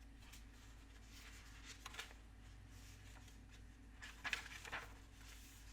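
Near silence in a small room, with a few faint paper rustles and soft clicks about two seconds in and again around four to five seconds in, like the pages of a picture book being handled.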